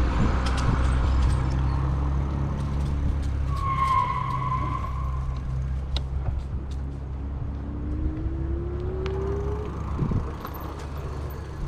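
Riding noise on an e-bike: a steady low rumble of wind and tyres. A short high tone sounds about four seconds in, and a tone rising slowly in pitch comes near eight seconds.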